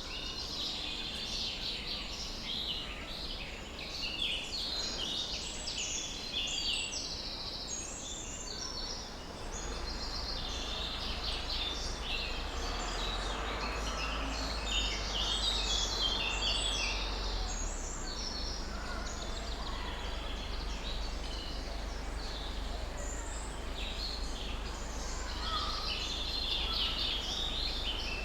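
Many small birds chirping and singing, dense and overlapping, over a steady low rumble that grows louder about a third of the way in.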